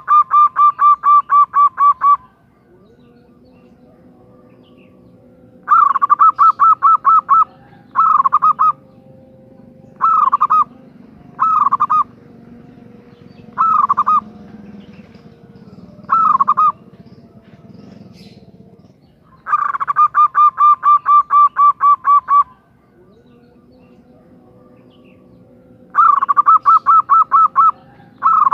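Female zebra dove (perkutut) calling to males: loud bursts of rapid, stuttering notes at one pitch. Several runs last two to three seconds, with short single bursts between them. A faint steady hum runs under parts of it.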